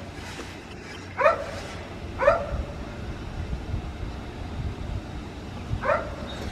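A dog barking: two single barks about a second apart, then a third near the end.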